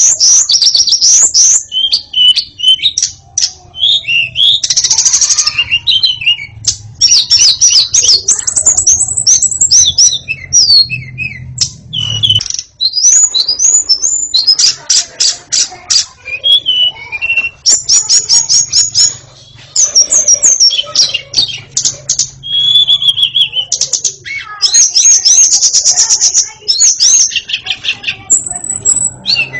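White-rumped shama (murai batu) singing loudly and continuously: a long, varied song of rapid trills, chattering notes and clear sweeping whistles with only short pauses.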